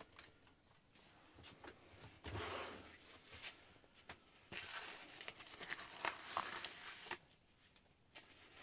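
Faint crinkling, rustling and small clicks of hands handling small parts and sticky adhesive film, starting about a second in and stopping about seven seconds in.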